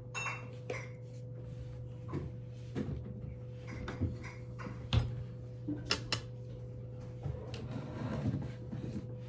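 Scattered knocks and clicks as a nearly empty plastic sauce bottle is handled, shaken and squeezed, with little or nothing coming out. A steady low hum runs underneath.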